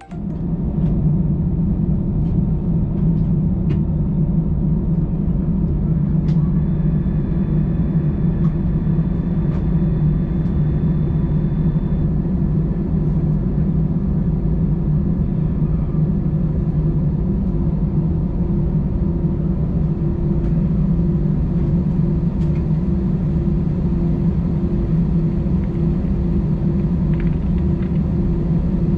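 Airbus A320's CFM56 jet engines at idle, heard inside the cabin as a steady low rumble, with a low hum that pulses evenly during the second half.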